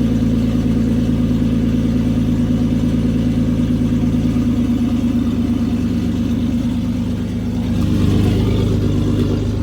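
2006 BMW 330i's N52 straight-six engine idling roughly and sounding really bad, with a brief dip and swell in level near the end. The engine is setting misfire codes that new ignition coils, spark plugs and solenoids have not cured, and the owner suspects the fuel injectors or the fuel pump.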